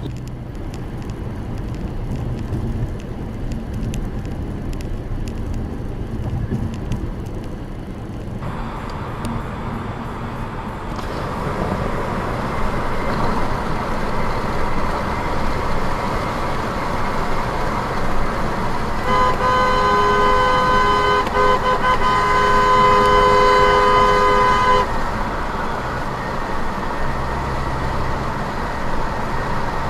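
Road and engine noise heard from inside a moving car, with a car horn held steadily for about six seconds a little past the middle.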